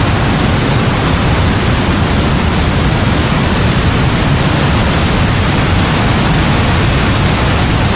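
Heavy rain falling steadily in a thunderstorm: a dense, even hiss with a deep low rumble underneath and no single thunderclap.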